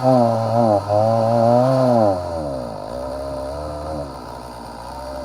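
Stihl MS290 two-stroke chainsaw running at high revs, then about two seconds in the revs fall away and it stumbles and winds down toward stalling: the saw is running out of fuel.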